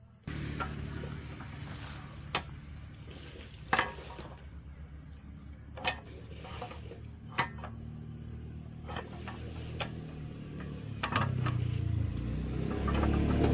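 A machine runs with a steady low hum that grows louder near the end. Sharp metallic clinks and knocks come over it every second or two.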